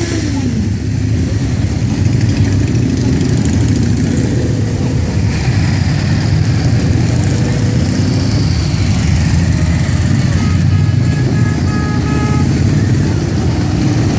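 Motorcycle engines running together in a steady, loud low rumble.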